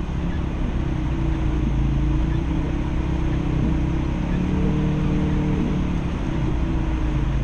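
Ford Focus RS engine held at high revs with the tyres spinning in deep snow, the car clawing forward with traction control off. The engine note wavers and climbs briefly about halfway through.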